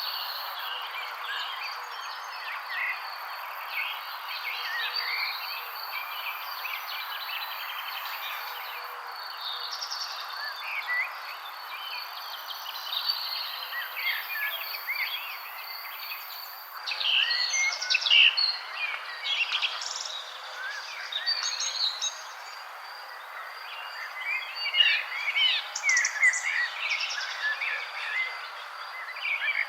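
A chorus of small birds chirping and singing in many short, quick calls over a steady background hiss. About halfway through, the calls grow busier and louder.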